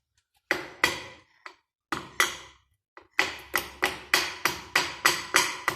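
Hand tools clinking on metal, sharp ringing taps: a few scattered strikes, then a steady run of about three clicks a second from about three seconds in.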